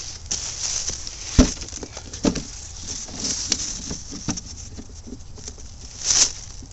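Rustling and scattered taps and knocks of a container being handled and shifted on the ground, with one sharp knock about a second and a half in and a brief louder rush of rustling near the end.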